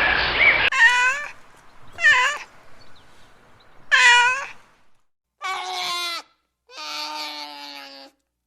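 A cat meowing: three short meows, each dipping and rising in pitch, then two longer, lower, steady-pitched calls in the second half.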